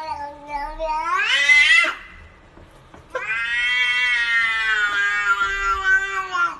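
A domestic cat yowling: two long drawn-out calls, the first rising in pitch and ending about two seconds in, the second starting about a second later and held for about three and a half seconds.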